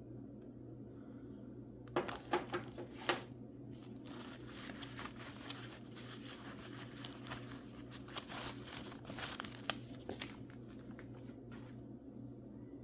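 Wrapping around a mineral specimen being crinkled and torn open by hand. It starts about two seconds in with a few sharp crackles, runs on as dense crinkling, and stops just before the end.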